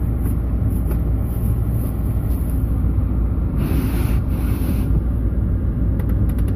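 GMC Envoy SUV's engine idling in neutral, heard from inside the cabin as a steady low rumble, while the truck is being shifted into four-wheel drive low. A short rushing noise comes about three and a half seconds in, and fast, even ticking starts near the end.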